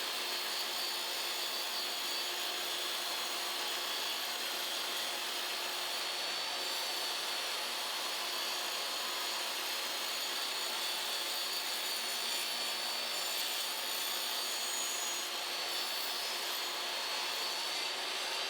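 Table saw running steadily with a high, even whine, ripping a cedar fence picket into narrow strips with the blade tilted to 18 degrees.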